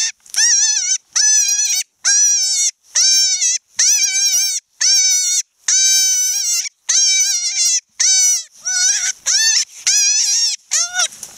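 Wild cottontail rabbit screaming in distress while being held: a run of loud, high-pitched cries of under a second each, about one a second, each dipping in pitch at its end, turning into shorter, quicker cries near the end.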